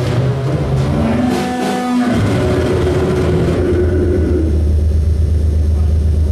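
Harsh noise music: dense, distorted electronic noise with shifting tones and pitch glides, settling about three and a half seconds in into a steady, loud low drone.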